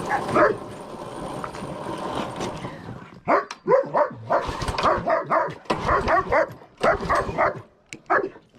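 A dog barking and yipping in quick, repeated bursts, starting about three seconds in after a stretch of steady background noise.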